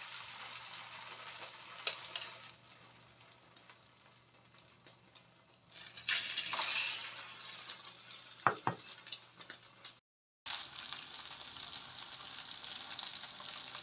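Egg-coated slices of white radish cake sizzling in shallow hot oil in a frying pan. The sizzle flares each time a slice is laid in with metal tongs, with a few clinks of the tongs, and settles into a steady sizzle of the whole batch frying near the end.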